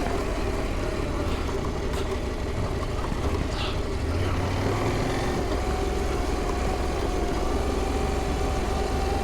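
Adventure motorcycle engine running at steady revs while riding an off-road trail, heard through an in-helmet microphone.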